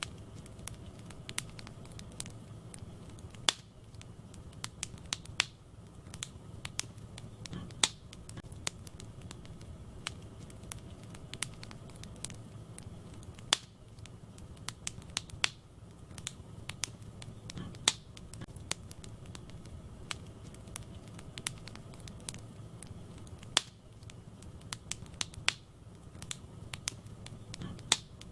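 Wood fire burning in a fireplace: a steady low rumble and hiss with irregular sharp crackles and pops from the burning logs. The louder pops recur in the same pattern about every ten seconds, as in a looped recording.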